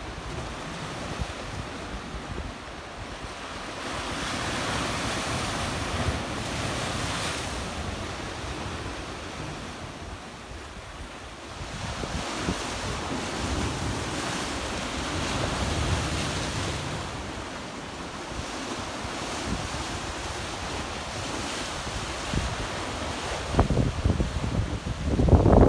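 Black Sea waves washing onto a rocky shore in slow surges that swell and fall back, with wind rumbling on the microphone. The wind gusts harder near the end.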